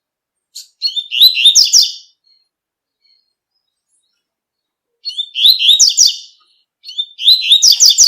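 Double-collared seedeater (coleiro) singing its 'tui-tui' song: three phrases of quick repeated high notes, each about a second and a half long, the first followed by a pause of about three seconds.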